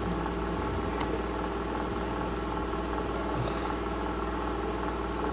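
Steady mechanical hum of room or machine noise, like a fan, with a few faint clicks.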